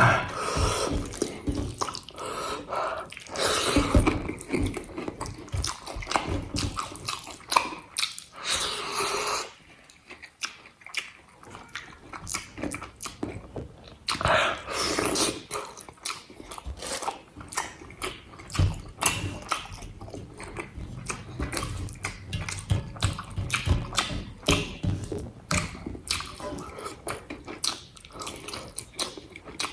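A person chewing and biting a meal of egg curry, rice and papad, with wet mouth sounds and irregular clicks.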